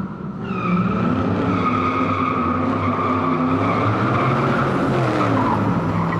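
Vehicle sound of an engine running with tires squealing, starting suddenly and holding steady throughout.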